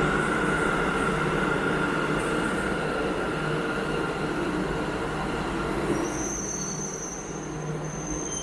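Sendai Subway Tozai Line train running: a steady rumble with a high whine held on one note that slowly fades. A thin, very high steady tone joins about six seconds in.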